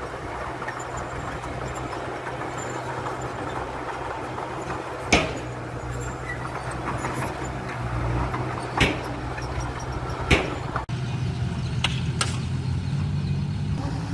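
Engine of heavy earthmoving machinery running steadily, with a few sharp knocks now and then.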